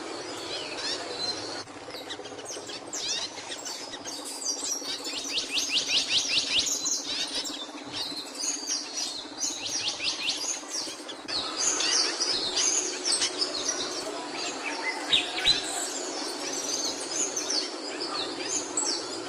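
A small songbird called a capuchino singing: fast high chirping phrases and rapid trills, over a steady background hiss.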